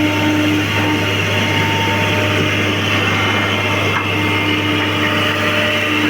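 Excavator's diesel engine running steadily, with a constant whine over the low engine note.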